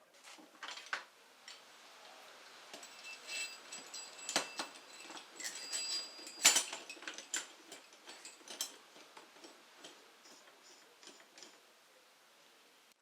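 Hand tools and metal parts clicking, tapping and clinking against a motorcycle engine's aluminium crankcase while the casings are being split, with a few short ringing metallic clinks in the middle and the loudest about six and a half seconds in.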